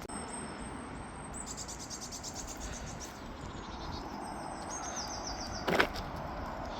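Small songbirds singing outdoors: series of high, thin notes repeated quickly, over a steady outdoor background. A short loud thump comes near the end.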